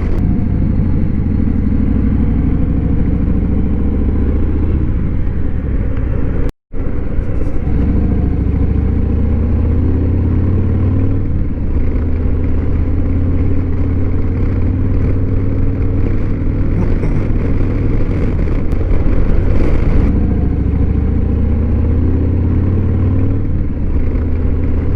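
Motorcycle engine running steadily while under way, heard from the rider's own bike, its pitch shifting slightly with the throttle. The sound cuts out for a split second about six and a half seconds in.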